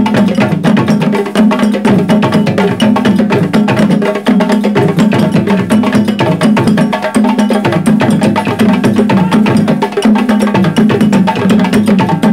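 A group of drummers playing a timbalada, a Brazilian-style street percussion groove: dense sharp strokes over a deep drum pattern that repeats about every second and a bit.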